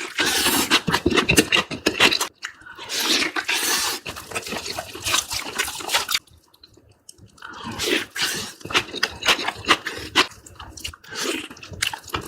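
Close-miked eating sounds: wet chewing, crunching bites and mouth clicks, with a pause of about a second around the middle.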